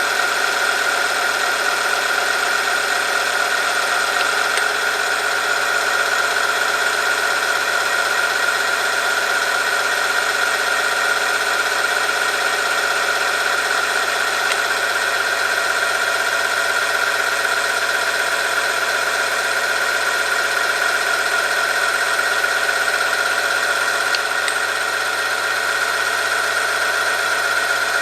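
Oil-film friction test machine running steadily with a steady high whine, its loaded steel sample lubricated by Specol Gold 5W30 oil. The level dips briefly near the end.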